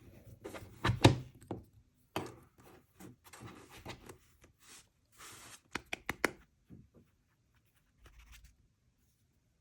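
Hands handling plastic toys and packaging: a few thumps and knocks, stretches of rustling, and a quick run of sharp clicks about six seconds in.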